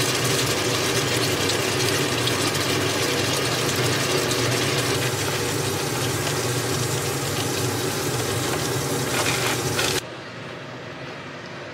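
Food sizzling in frying pans on a hob, julienned potato with bacon and dakgalbi, a loud dense sizzle with fine crackling over a steady low hum. About ten seconds in it cuts off sharply, leaving only a quieter steady hum.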